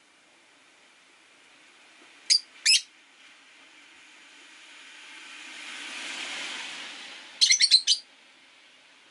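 Rosy-faced lovebirds chirping: two sharp chirps a little after two seconds in, then a quick run of about five chirps near the end. Between them a passing car's noise swells and fades.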